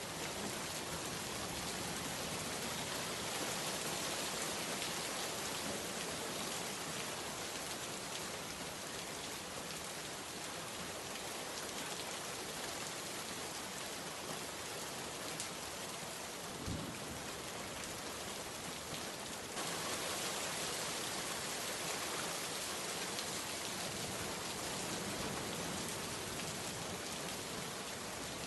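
Steady heavy rain, a dense even hiss of drops falling on surfaces. There is a brief low thump about two-thirds of the way through, and the rain steps up slightly in loudness soon after.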